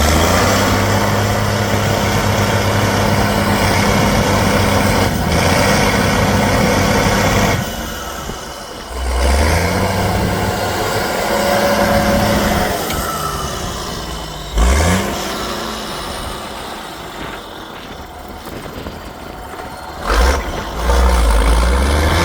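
Heavy off-road trial truck engine running hard, revving up sharply a few times, with the sound dropping away in between.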